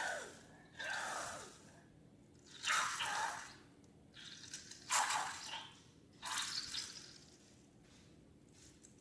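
Wet squishing and pouring sounds of slime and liquid ingredients being handled and mixed, in about five separate bursts a second or two apart.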